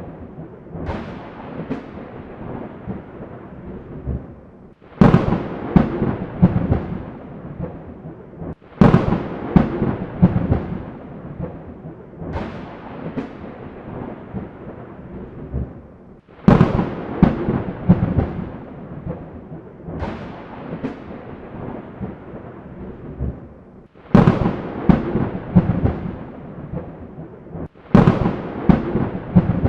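Thunderclaps over steady rain: five sharp cracks that each break out suddenly and roll off into crackling, fading rumbles.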